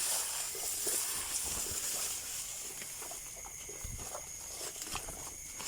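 Outdoor rural ambience: a steady high-pitched hiss with a couple of thin steady tones, like insects chirring, and scattered soft rustles and low thumps of footsteps.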